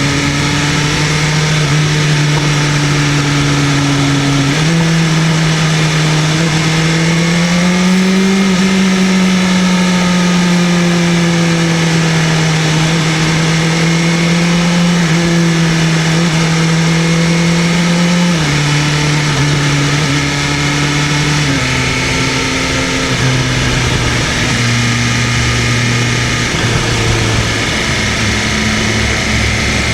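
BMW M1000RR superbike's inline-four engine running under way at a fairly steady speed. The engine note holds for several seconds at a time, rises gently around the middle, then drops in a series of abrupt steps in the later part.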